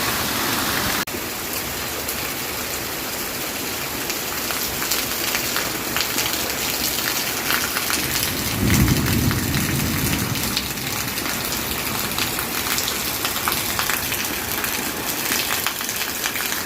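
Steady rain falling and pattering on surfaces, with many separate drop ticks. The sound changes abruptly about a second in. A low rumble of thunder rises about nine seconds in and lasts a couple of seconds.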